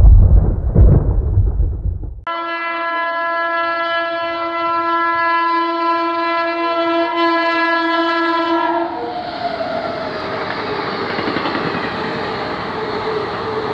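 Thunder rumbles for about the first two seconds. Then an Indian Railways locomotive horn sounds one long steady blast for about six seconds. After it comes the rushing rumble and wheel clatter of an express passenger train passing through the station at speed.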